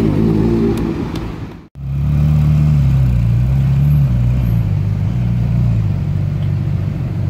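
A classic Ferrari V8 sports car drives past. After a sudden cut, a Ferrari 458 Italia's V8 runs at low revs from close behind its exhaust: a low, fairly steady note whose pitch wavers a little.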